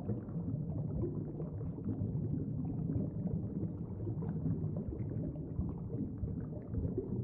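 Low, even rumble of underwater-style background ambience, with a restless, flickering texture and no clear beat or melody.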